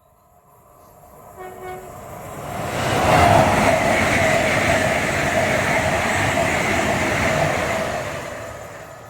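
A train passing close by. The noise builds as it approaches, stays loud with rushing wheel and rail noise for about five seconds as it goes by, then fades away. A brief horn note sounds about a second and a half in, as it approaches.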